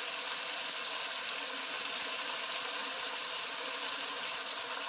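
Chicken pieces frying in oil in a pan, a steady sizzle, as fish sauce is poured in.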